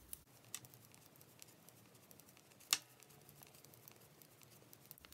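Knitting needles clicking faintly and sparsely as stitches are knitted, with one louder click about two and a half seconds in.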